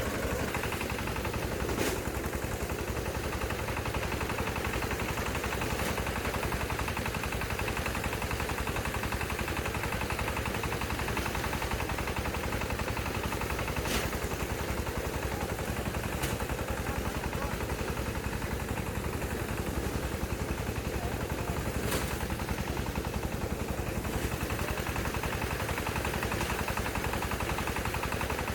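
A small engine running steadily, with a fast, even rattling beat.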